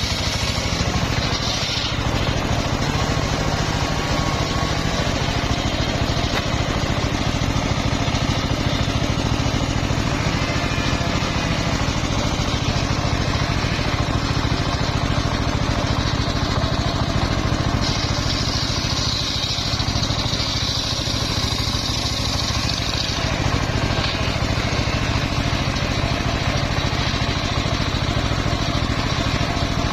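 Engine of a homemade circular sawmill running steadily under load, with a higher whine from the saw blade for about five seconds past the middle as it cuts through old, fairly hard mahogany.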